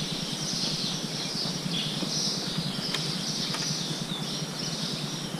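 Many small birds chirping at once, their overlapping high calls forming a continuous chatter, with a couple of faint clicks near the middle.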